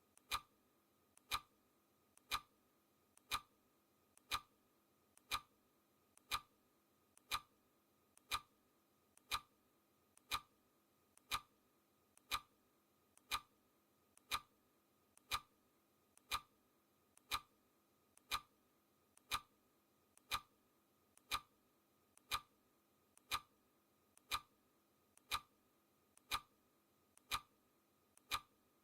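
Clock ticking sound effect: a sharp tick once a second, each one preceded shortly by a much fainter click.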